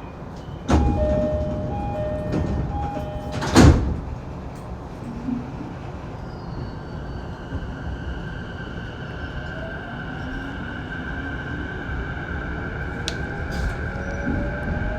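Saikyō Line commuter train at a station stop: the door-closing chime sounds for about three seconds, the sliding doors shut with a loud thud, and the train then pulls away, its electric traction motors whining in slowly rising tones.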